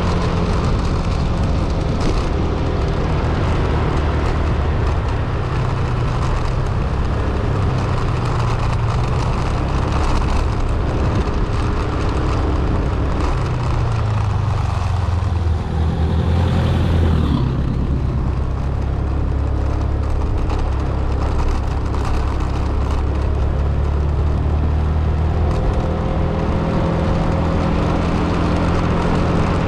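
A road vehicle's engine and road noise while driving, the engine note shifting in pitch around the middle.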